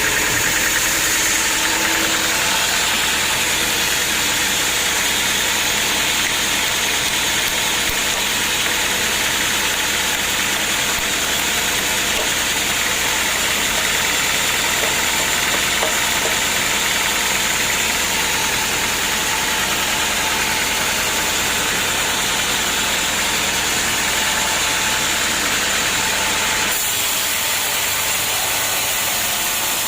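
Homemade band sawmill running steadily, a motor drone under a wide, even noise. Near the end the low drone falls away and the higher noise carries on.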